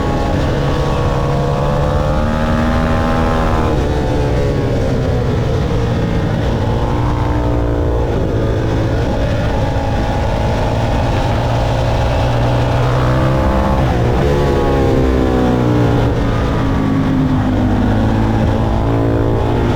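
Motorcycle engine at full track pace, its note climbing and falling repeatedly as it revs up and drops through the gears, over a steady rushing noise.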